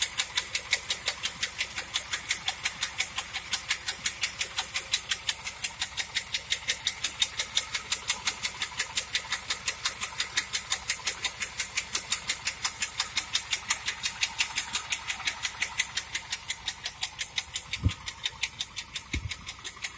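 1997 Pontiac Trans Am's LT1 V8 idling with a sharp, even ticking at about five ticks a second, the bad engine noise the owner is showing. Two brief low thumps come near the end.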